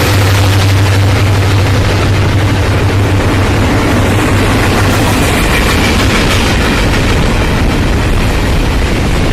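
Union Pacific diesel freight locomotives passing close by, a loud steady engine drone over the rumble of the train. The drone fades about six seconds in while the rumble of the rolling stack cars goes on.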